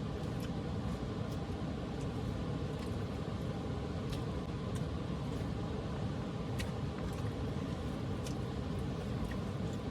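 Steady rush of water from a small waterfall, with a wood fire crackling faintly now and then.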